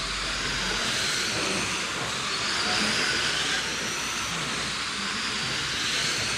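Several electric RC dirt oval cars with 21.5-turn brushless motors racing around the track: a steady high hiss with a faint whine that rises and falls as they lap.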